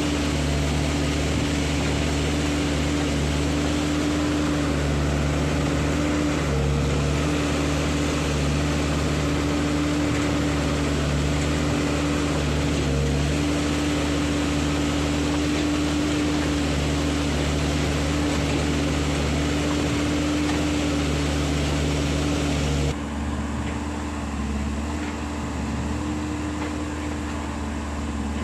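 Heavy earthmoving machinery's diesel engine running steadily, a continuous low drone with a held pitch. Near the end the sound drops abruptly to a quieter engine drone.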